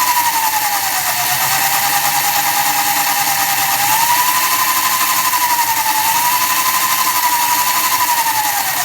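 72-volt, 2000-watt electric motor of a Honda Monkey conversion whining as it spins the chain-driven rear wheel, running very smooth on its sine-wave controller. The whine drops about a second in, climbs again about four seconds in, dips and rises once more, and falls away near the end as the throttle eases, over a steady hiss.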